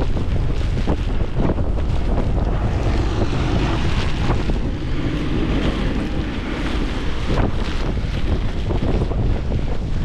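Wind buffeting the microphone during a fast downhill ride on a folding bicycle, a steady loud rumble.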